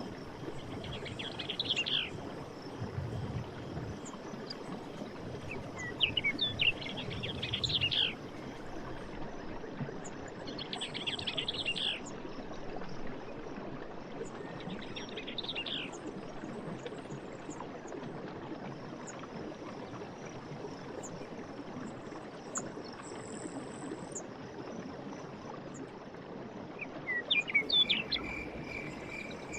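Steady rush of running water in a forest, with a bird singing short phrases of quick high notes about every four to five seconds, and fainter high chirps in the background.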